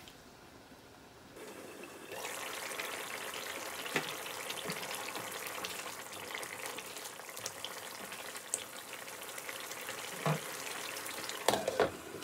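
Chicken curry gravy sizzling and bubbling in a wok as a spatula stirs it, starting about two seconds in, with a few knocks of the spatula on the pan. Near the end there are a couple of clinks as a glass lid is set on the pan.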